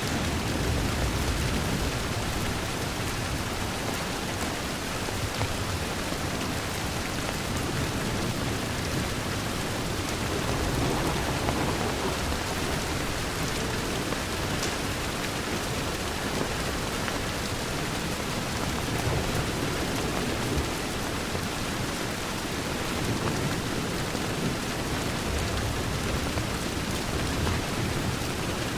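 Steady rain on a window, a dense, even patter with a low rumble underneath.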